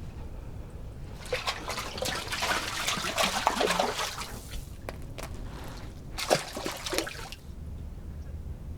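Water splashing and trickling in two spells, from about a second in to four and a half seconds, then again briefly around six to seven seconds.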